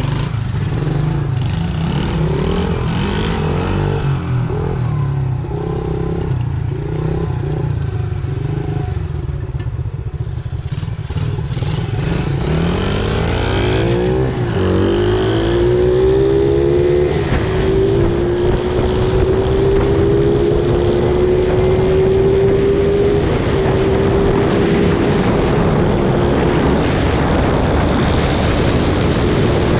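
Small engine of a ride-on machine running steadily under way, with wind noise on the microphone. About halfway through its pitch climbs and then holds a steady, higher hum.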